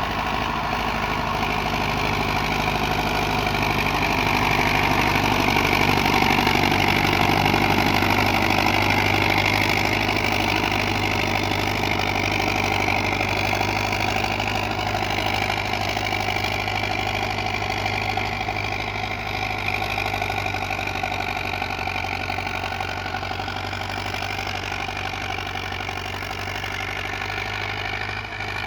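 Hindustan 80 tractor engine running steadily under load while pulling a harrow through rough sand. It grows louder about five seconds in, then slowly fades.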